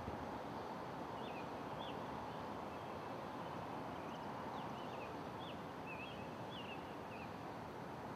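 Steady outdoor city background noise, with a small bird chirping in short, quick calls from about a second in until near the end.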